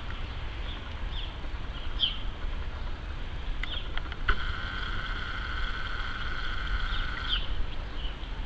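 Birds chirping, short calls here and there, with one long steady note starting about four seconds in and lasting about three seconds, over a low steady rumble.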